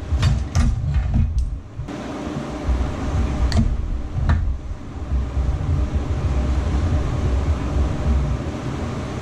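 Hand tools clicking against metal as an Allen key is pulled out and the band saw's housing is worked on: several sharp clicks in the first couple of seconds and two more a few seconds later. A steady low rumble runs under them throughout.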